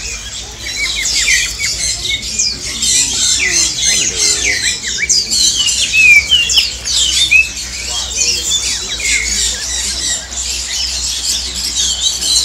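Many caged birds, parakeets among them, chirping and squawking all at once: a dense, busy chorus of short, high, quickly falling calls.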